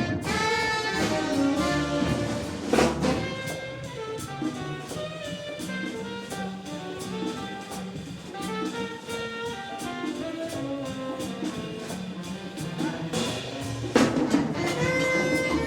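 Jazz music: horns playing over drums and bass, with cymbal crashes about three seconds in and near the end.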